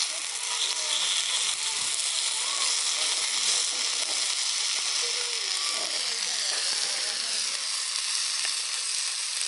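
Food sizzling steadily on a hot iron griddle.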